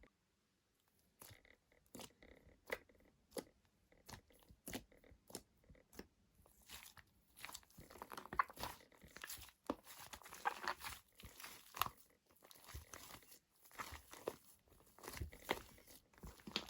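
Shaving foam being mixed, giving faint crackling, squishy clicks. The clicks start a second in, spaced apart at first, and become a dense, continuous crackle from about halfway through.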